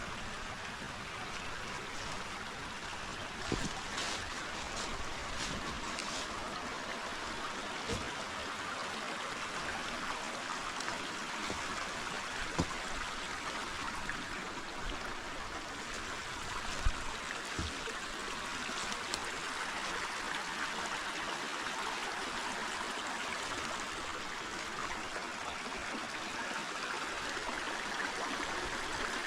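Forest river flowing: a steady rush of running water, with an occasional short knock or click, the sharpest a little past halfway.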